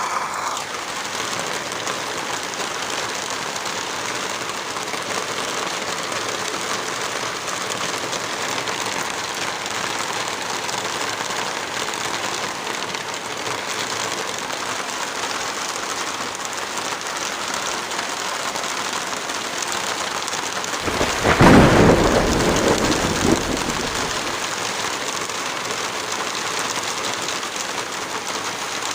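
Heavy rain falling steadily, with a peal of thunder about two-thirds of the way through that rumbles for two or three seconds and is the loudest moment.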